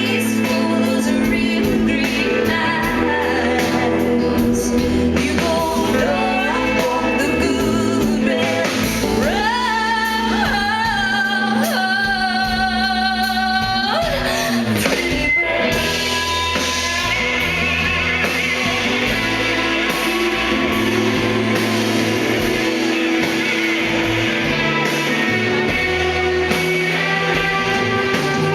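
Live concert performance of a song: a woman singing over band accompaniment, with the reverberation of a large venue. About halfway through she holds a long note with vibrato that breaks off, and the instruments carry on.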